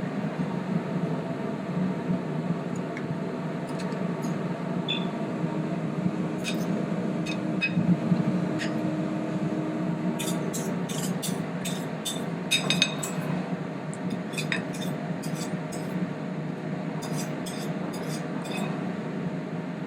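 Knife and fork clinking against a plate as roast chicken is cut, many short clinks, most of them in the second half, over a steady low room hum.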